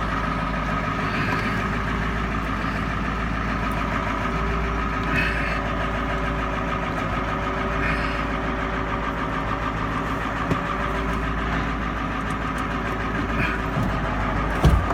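1995 Ford F450's 7.3-litre turbo-diesel V8 idling steadily, just after a cold start on glow plugs. A single thump comes near the end.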